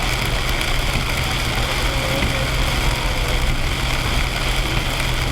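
Heavy rain falling steadily on a moving car, heard inside the cabin over a constant low hum of engine and road noise.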